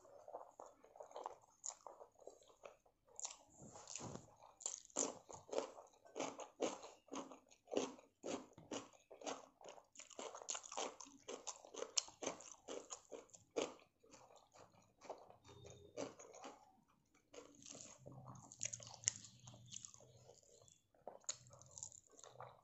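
A person chewing mouthfuls of prawn rice eaten by hand, close to the microphone, with quick, irregular wet smacks and clicks of the mouth.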